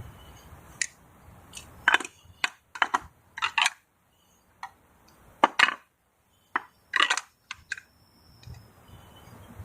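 Hands working on PVC pool plumbing during cementing: about a dozen sharp clicks and knocks of hard parts being handled, at irregular intervals.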